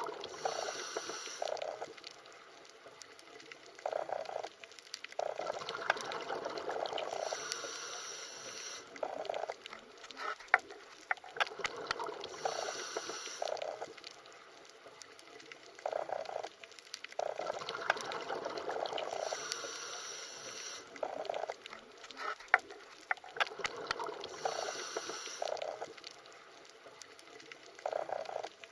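Underwater recording of bubbling and gurgling water, with scattered sharp clicks. It swells and fades in a cycle that repeats about every six seconds.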